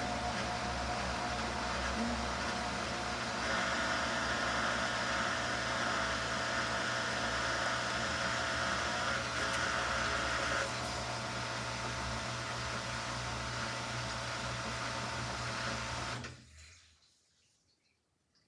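Samsung front-loading washing machine in its final spin: a steady motor hum and whirring drum, with a higher whir for several seconds in the middle. About 16 seconds in it stops abruptly and falls to near silence.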